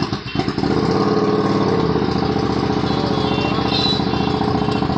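Motorcycle engine fitted with a loud aftermarket exhaust silencer, catching in the first half-second and then running steadily at idle.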